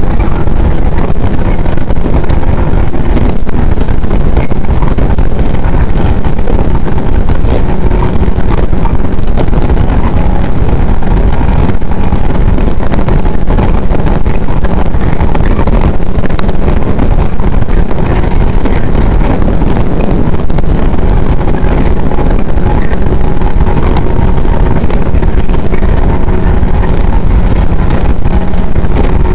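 JR 115-series electric train running at speed, heard inside the carriage: loud, steady running noise of wheels on rails, with a faint steady hum.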